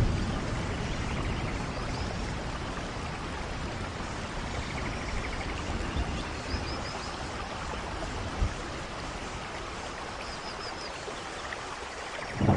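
Steady rain falling, a thunder rumble dying away at the start and another clap just beginning at the end. A few faint short high chirps sound twice over the rain.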